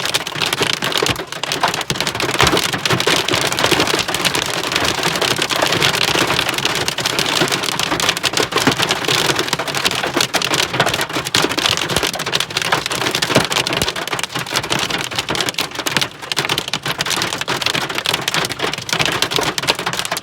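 Heavy rain mixed with hailstones pelting hard surfaces: a dense, steady clatter of countless sharp impacts.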